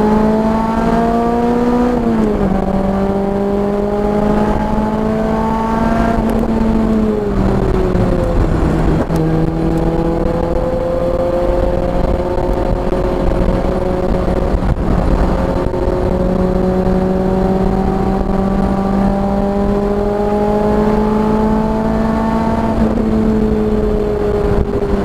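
A car's engine running hard on a track lap, its pitch dropping sharply about two seconds in, falling away for a couple of seconds around the middle as the driver slows, then climbing steadily for over ten seconds before easing off near the end, over steady road and wind noise.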